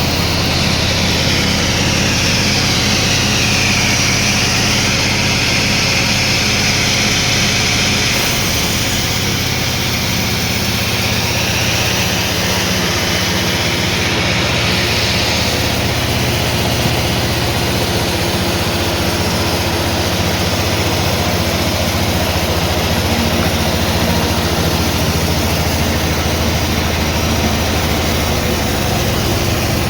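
Sawmill machinery running steadily, a low engine or motor hum under a high saw whine that sags in pitch a few seconds in and climbs back, then shifts again midway, as the blade works through the log.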